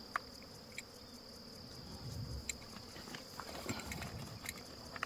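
Steady high-pitched insect chirring in the bush, with a few light clicks and taps scattered through it.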